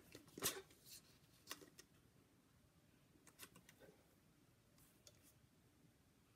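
A few faint, sharp clicks and snips of card stock being trimmed over near silence, the strongest about half a second in and a small cluster about three and a half seconds in.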